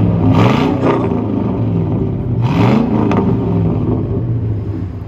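2002 GMC Yukon Denali's 6.0-litre V8 revved through a true dual exhaust with a Flowmaster Super 10 muffler: two quick throttle blips, about half a second in and about two and a half seconds in, each rising and falling back, then settling to idle.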